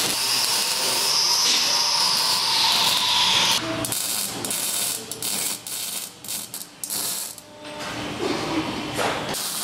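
Ratchet wrench clicking as fasteners are turned during exhaust-system work. A steady hiss runs over the first three or so seconds, then comes a spell of short, irregular clicks.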